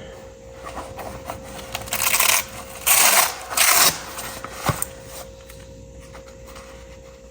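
Hand-tool work on a tractor distributor during a points and condenser change: three short rasping metal scrapes about two to four seconds in, then a sharp click.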